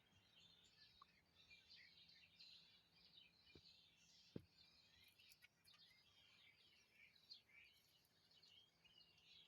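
Faint, busy chorus of small birds chirping and twittering, with a single soft click about four seconds in.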